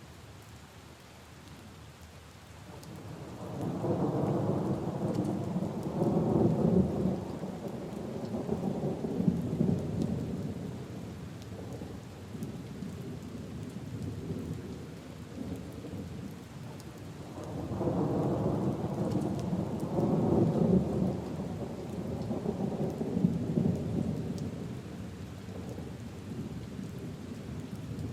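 Steady rain falling on puddles and leaves, with two long rolls of thunder: the first builds about three seconds in and slowly fades, the second comes about seventeen seconds in.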